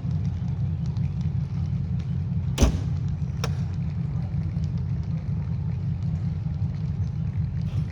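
Passenger train arriving behind a 2TE10UT diesel locomotive: a steady low rumble. A sharp clank comes about two and a half seconds in and a lighter one a second later.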